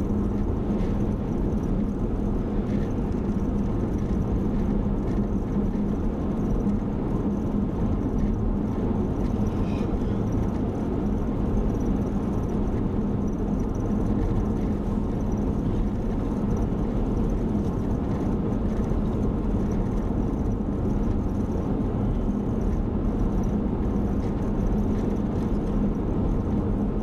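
Car driving at steady speed, heard from inside the cabin: a constant low road and engine drone with a steady hum.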